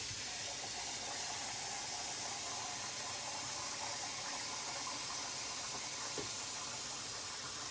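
Water running steadily from a kitchen tap, filling a container.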